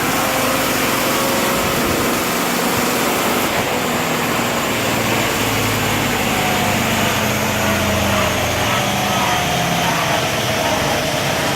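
Overhauled 4L80E four-speed automatic transmission running steadily on a dyno in fourth gear with the torque converter locked up, a continuous mechanical whine and hum. One whining tone slowly drops in pitch over the later seconds.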